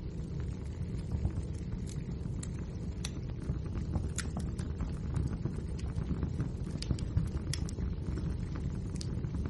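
Wood fire crackling: irregular sharp pops and snaps, a few every second, over a steady low rumble of the burning logs.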